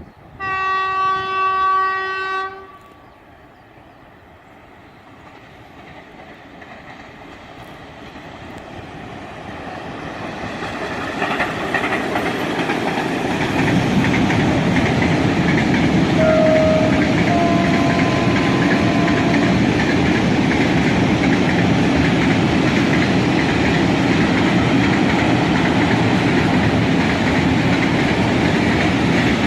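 Freight train's locomotive horn sounds one blast of about two seconds. Then the train approaches and passes, its wagons rumbling and clattering over the rails, growing louder until it holds steady, with a few brief squeals about halfway through.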